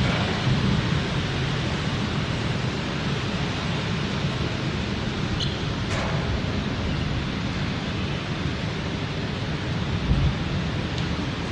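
Heavy rain falling steadily, a dense even hiss with a low rumble beneath it, and a brief low thump about ten seconds in.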